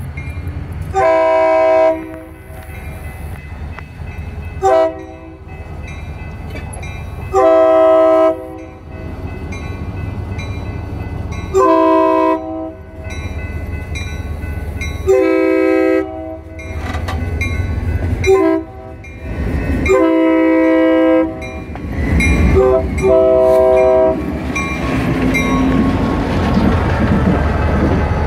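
Diesel locomotive's multi-chime air horn blowing a series of long and short blasts, in the long-long-short-long grade-crossing pattern, over the low rumble of the engine. Near the end the train's rolling noise builds as it draws close.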